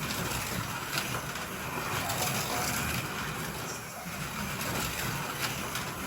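Two NSR Fiat 500 Abarth slot cars lapping a plastic Ninco track, their small electric motors and wheels running along the slot. The noise swells and dips about every four and a half seconds as they go round the circuit, with a sharp click about a second in and another near the end.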